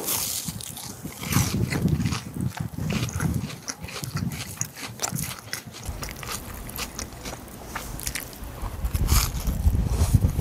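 Chewing and biting into a crisp breaded pork loin cutlet dipped in sauce: many sharp crunches of the fried breading over steady chewing, strongest near the end.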